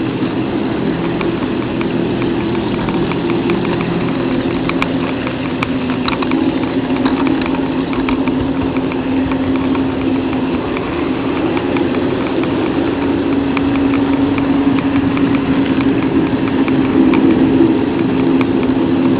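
HO-scale model train running along its track: a steady motor-and-gear hum with a rapid patter of light clicks from the wheels on the rails.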